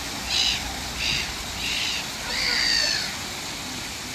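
Bird calls: four short high calls, one about every half-second, then a longer call with two pitched layers, over a steady hiss.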